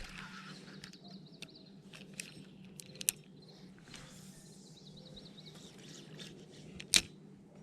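Faint bird trills over a low steady hum, with scattered small clicks and one sharp, loud knock about seven seconds in.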